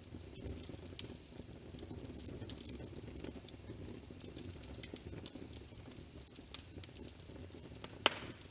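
Wood fire crackling in a fireplace: a steady low rustle of flames with irregular sharp pops, the loudest near the end.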